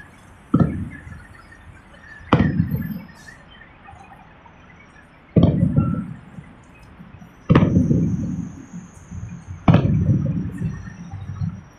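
Fireworks going off: five loud booms spaced a couple of seconds apart, each followed by a rumbling echo that dies away over a second or two.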